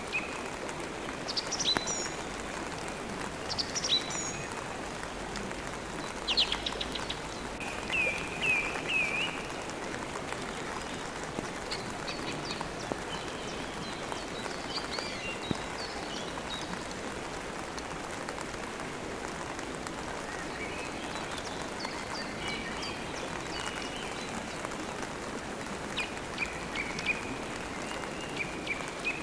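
Steady rain falling, with birds chirping now and then over it in short high calls.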